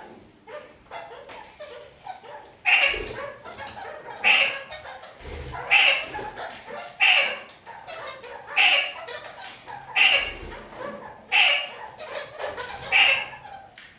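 Red-crowned parakeets (kakariki) calling: a loud, sharp call about every second and a half, eight in all from about three seconds in, with softer chattering between them.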